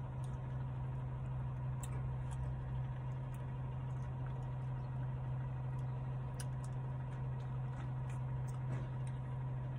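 Steady low hum of a car idling, heard from inside the cabin, with faint scattered mouth clicks and smacks from eating an ice cream cone.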